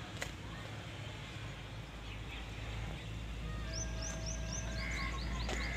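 Birds chirping outdoors, with a quick run of short rising chirps in the second half over a low steady rumble, and a single sharp click near the start.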